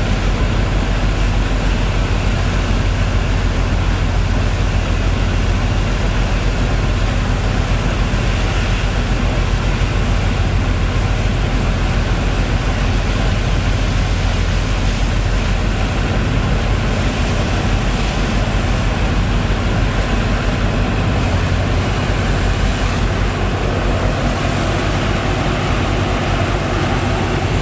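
Engine of a sand-boat pump running steadily under load, a constant low drone under an even rushing noise from the pumping.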